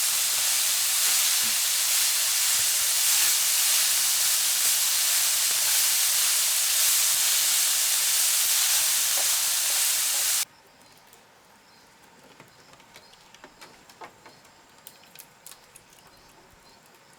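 A loud, steady hiss that stops abruptly about ten seconds in, leaving only faint scattered clicks and ticks.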